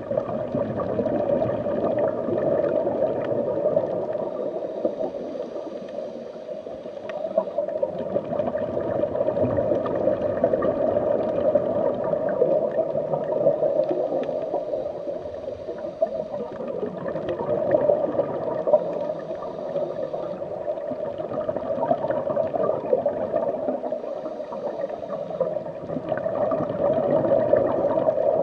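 Steady gurgling, underwater-style water sound that swells and eases in slow waves every several seconds.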